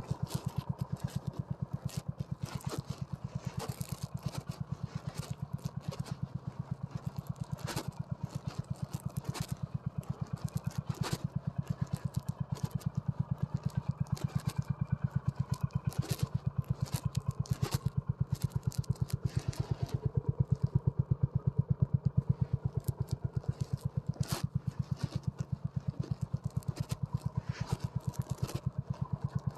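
Honda CB350 RS's single-cylinder four-stroke engine running at low, steady revs, an even beat of exhaust pulses. Short clatters and scrapes from the bike on rough trail come and go over it.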